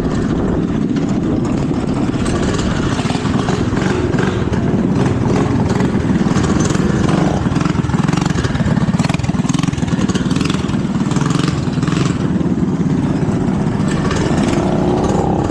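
Small minibike engines running steadily.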